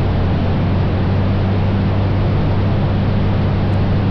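Cabin drone of a 1956 Cessna 172 in flight: its Continental O-300 six-cylinder engine and propeller running steadily, a low hum under a constant rush of air noise.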